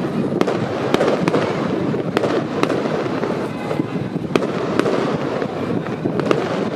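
Fireworks display: a continuous dense barrage of shell bursts and crackle, with sharp cracks standing out about once or twice a second.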